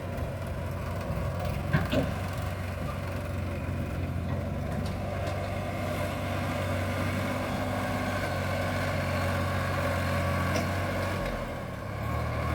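Sonalika tractor's diesel engine running steadily, with a sharp knock about two seconds in and a slight shift in the engine note near the end.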